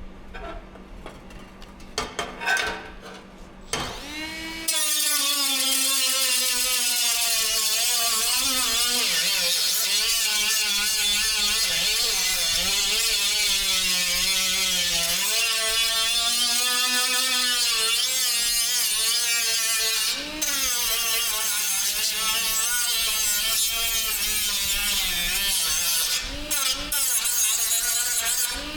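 Handheld electric grinder running on metal, its whine sagging and rising as it is pressed into the work, with a few brief let-offs. Some clicks and knocks come before it starts a few seconds in.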